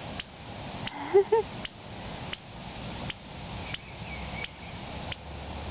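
A steady series of sharp ticks, about three every two seconds, over a low background hiss, with a brief pitched rising-and-falling sound about a second in.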